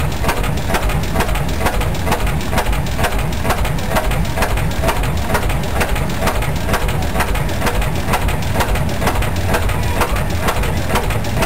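Vintage Reid oil field engine running under load on a Prony brake, firing in a steady, even rhythm of sharp beats.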